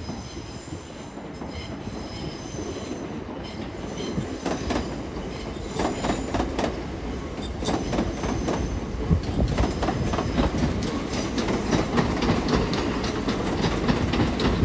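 Southeastern Class 375 Electrostar electric multiple unit pulling in, growing steadily louder as it comes closer. Its wheels click repeatedly over rail joints, with thin high-pitched squeals coming and going.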